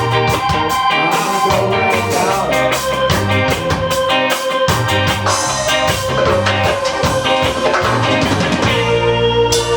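Ska band playing live: electric guitar, bass and drum kit in a steady rhythm, with an organ holding a long note near the end.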